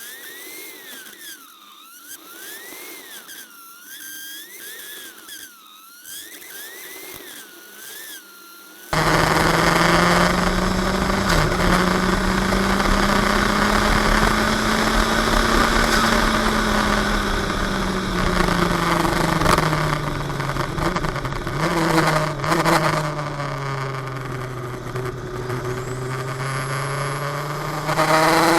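A high thin whine that swings up and down in pitch, then an abrupt cut about nine seconds in to the 400 hp open-wheel sports car's engine heard from inside the car. The engine runs loud and hard over heavy wind and road noise, its pitch rising slowly, falling away, then climbing again near the end.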